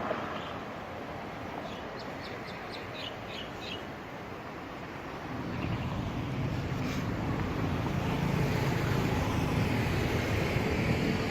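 Street traffic by a beach road: a vehicle engine grows louder from about halfway through and keeps running. About two seconds in, a bird gives a quick run of short high chirps.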